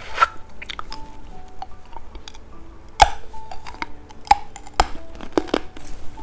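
Sharp clicks and clinks from handling small hard candies and their packaging, several separate taps with the loudest about halfway through, over soft background music.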